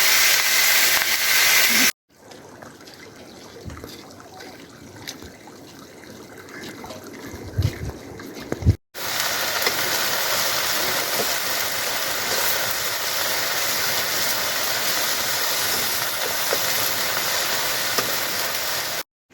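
Steady rushing noise in three stretches joined by abrupt cuts. The middle stretch is much quieter, with a few knocks near its end.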